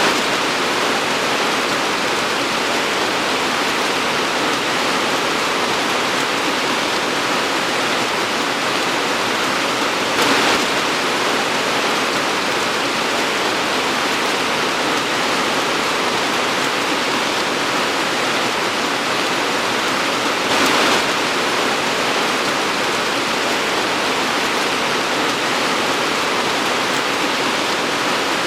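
Torrential rain pouring down in a steady, dense hiss, with two brief swells in loudness about ten seconds apart.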